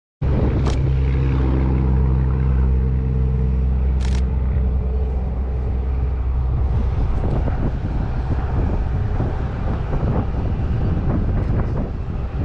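Motor vehicle engine running with a steady low hum, starting suddenly. The hum fades after about six seconds into a rougher rumble.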